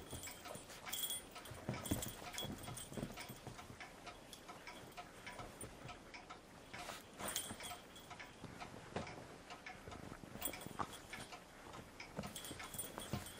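A bichon puppy and a kitten scuffling in play, with quick, irregular clicks and taps of paws and claws.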